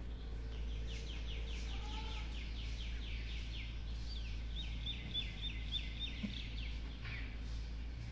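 A bird calling: a fast run of short, high, falling notes lasting about three seconds, then after a short gap a slower string of short high chirps, over a steady low rumble.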